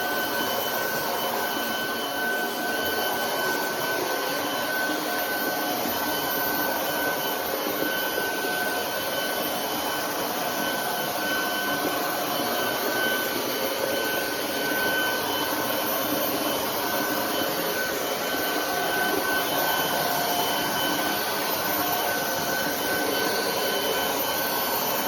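Roborock Dyad Pro cordless wet-and-dry vacuum running steadily, a constant motor rush with a high whine on top; it stops abruptly at the end.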